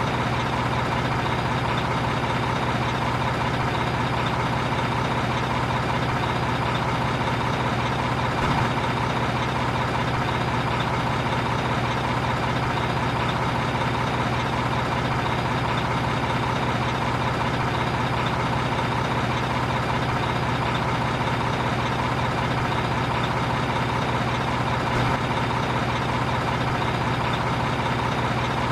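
Heavy truck engine idling steadily and evenly, with no change in speed, and two faint clicks along the way.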